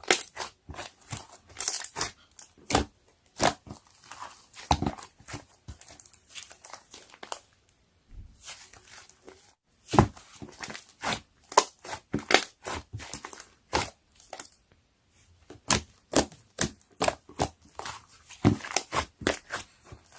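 Irregular crisp crunches and wet snaps of peach being bitten and chewed, with short pauses between bites.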